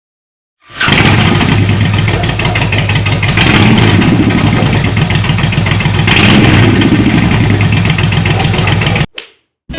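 Motorcycle engine running loud and close, swelling twice as it is revved, then cutting off abruptly near the end.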